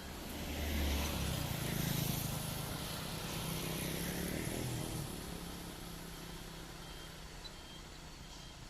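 A motor vehicle's engine drives past, getting louder over the first second and fading away after about five seconds. Faint short beeps repeat about twice a second near the end.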